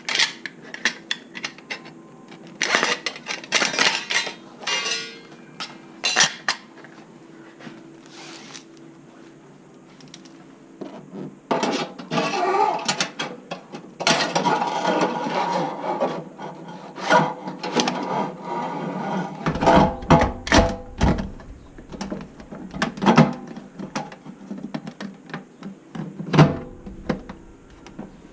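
Hand tools and plumbing parts being handled during installation work: intermittent knocks, clicks and scraping, with a few heavier thumps in the second half.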